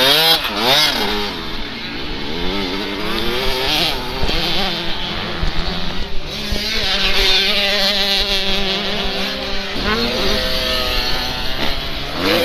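Motocross motorcycle engines revving, their pitch repeatedly rising and falling as they accelerate and back off, with more than one engine note overlapping at times.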